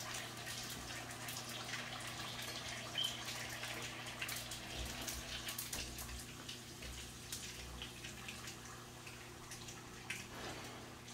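Fish roe frying in a pan of hot oil: steady sizzling with scattered small crackles and pops.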